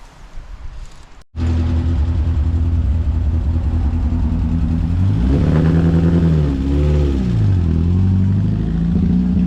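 An engine starts running loudly and steadily after a cut just over a second in. About four seconds later it revs up, drops back, rises briefly again and settles to a steady run.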